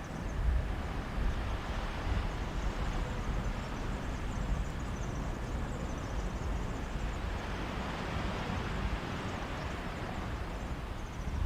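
Mediterranean surf washing on a beach in a steady rush, with a gusty low rumble of sea breeze on the microphone.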